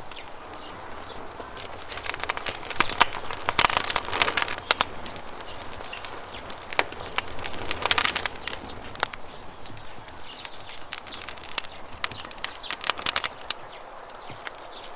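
Wood campfire crackling and popping, with dense runs of snaps a couple of seconds in, around the middle, and again near the end, over a steady rush of flowing river water.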